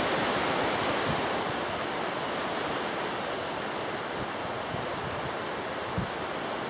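Strong gusty wind rushing over the microphone as a steady noise, with a few low buffeting thumps near the end.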